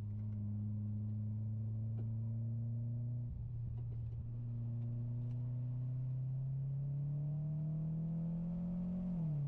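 Mitsubishi Lancer Ralliart's turbocharged 2.0-litre four-cylinder engine, heard from inside the cabin. It holds a steady drone, dips briefly about a third of the way in, then rises steadily in pitch as the car accelerates, and drops with an upshift near the end.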